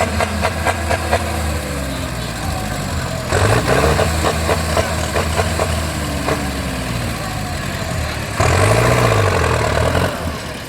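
Diesel tractor engines running hard under racing throttle, their pitch rising and falling, with two sudden louder surges about three and eight seconds in.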